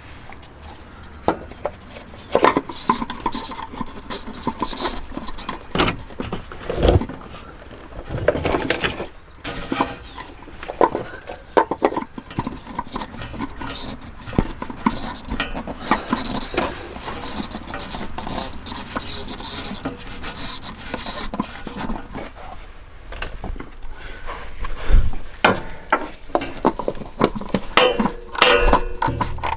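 Irregular clicks, knocks and rubbing of tools and car parts being handled, a hands-on repair working on the oil filter.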